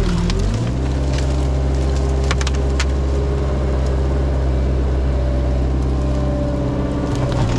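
Heavy equipment's diesel engine running hard while pushing a brush pile. Its pitch dips at the start as it lugs under load, then holds steady. Wood snaps sharply a couple of times near the middle.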